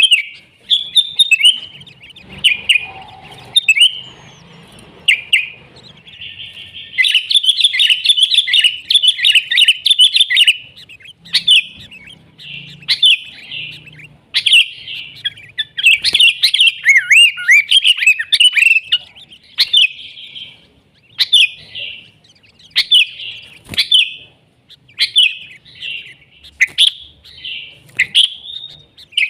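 Sooty-headed bulbul (kutilang) singing busily in fast runs of chirps and short whistled, sliding notes. The phrases last one to a few seconds with brief gaps between them, and one long, dense run comes about a quarter of the way in.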